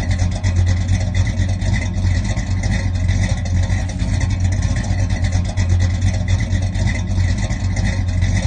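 Car engine running steadily at a constant speed, loud and close.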